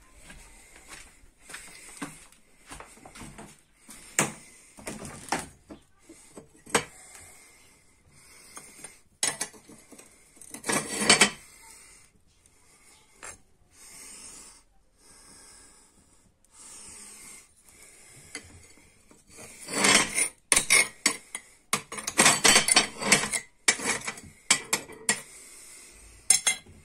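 Irregular clattering, knocking and scraping of hard objects being handled, with a loud cluster about ten seconds in and a dense run of knocks from about twenty seconds on.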